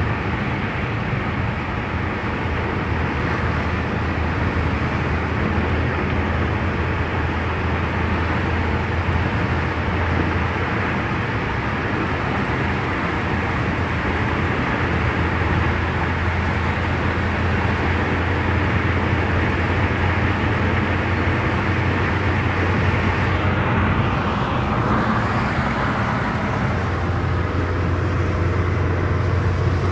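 Steady road noise of a car being driven, a low hum of engine and tyres under a wide hiss, with a brief swell of hiss about three-quarters of the way through.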